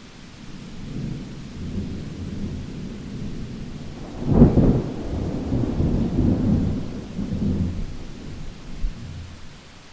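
Thunder rumbling over steady rain: the rumble builds from about a second in to a sharp, loud crack a little after four seconds, then rolls on and fades near the end.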